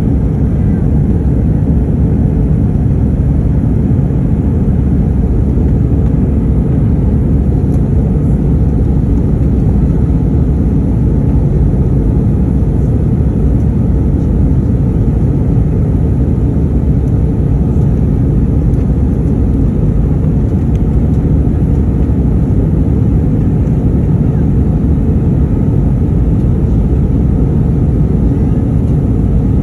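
Steady cabin noise of an Airbus A319 in flight: an even rumble of engines and airflow, with no change throughout.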